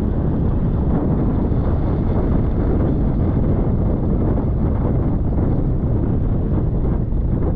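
Steady wind rumble buffeting the microphone of a camera on a moving motor scooter, with the scooter's engine and road noise running beneath it.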